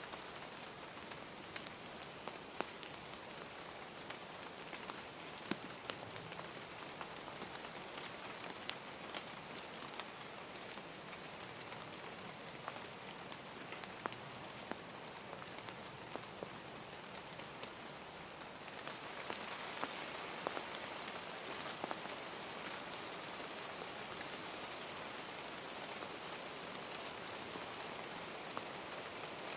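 Steady rain falling, with scattered sharp drop hits; it grows a little louder about two-thirds of the way through.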